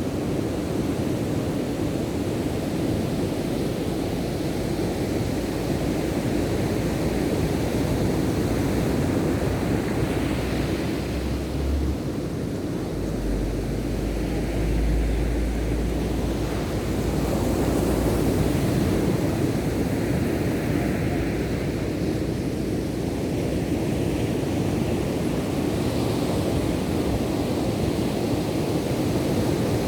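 Ocean surf washing steadily onto a beach, with a deep wind rumble on the microphone swelling near the middle.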